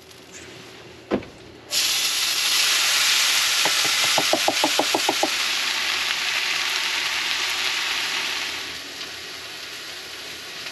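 Shredded potatoes going into a hot oiled frying pan: a click, then a sudden loud sizzle that starts about two seconds in, with a quick run of short taps partway through. The sizzle settles lower near the end.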